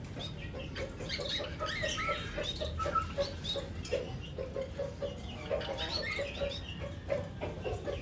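Budgies chirping and chattering, many short high calls overlapping, over a steady run of short low notes repeating several times a second.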